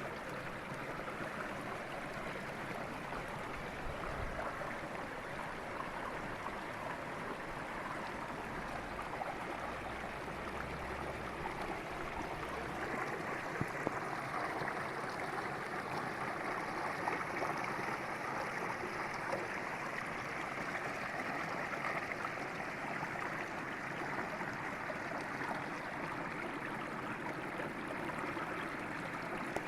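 Derna River water flowing with a steady, even rush.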